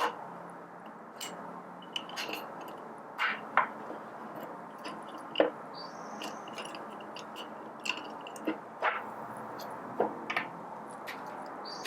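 Small metal parts of a Baratza Forte grinder's gearbox clicking and scraping as the calibration spline assembly is pried out. Scattered sharp clicks, the loudest about five and a half seconds in.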